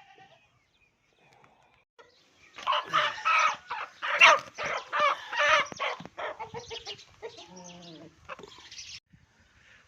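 Aseel chickens calling: a rooster crowing and hens clucking, loudest from about two and a half to six seconds in, then quieter calls that stop about nine seconds in.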